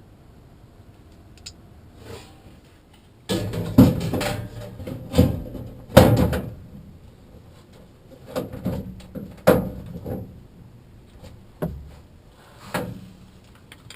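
Irregular knocks, bumps and rattles of things being handled, loudest between about three and seven seconds in, with a few single knocks later.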